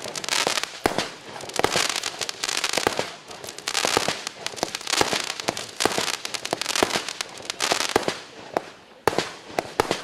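Compact fireworks cake (C19220FC) firing a rapid stream of shots. Sharp reports mix with dense crackling that swells and fades in waves several times.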